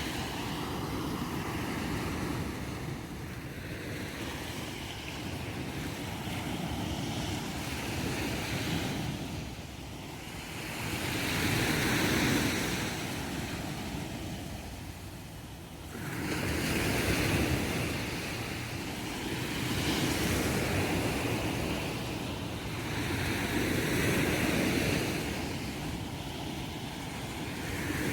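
Small Mediterranean waves breaking and washing up the beach, the surf swelling and dying away every few seconds.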